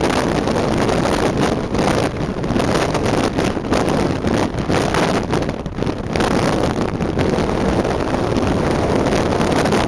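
Wind buffeting the microphone over the steady noise of a moving vehicle on the road, easing briefly a little past the middle.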